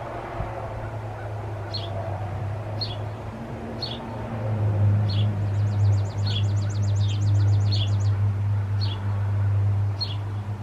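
Birds chirping outdoors: short high chirps repeat about once a second, with a fast ticking trill a few seconds in. A low steady hum swells under them from about four seconds in.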